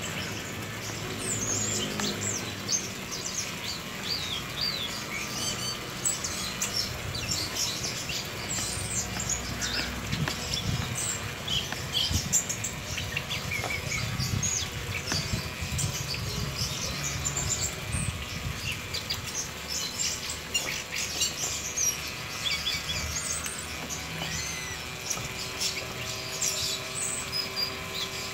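Small caged birds chirping and twittering, many short high calls overlapping without a break. A low steady hum joins near the end.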